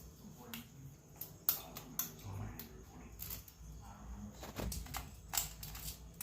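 Scattered clicks and knocks of hard objects being handled, about half a dozen spread out, over a faint low hum.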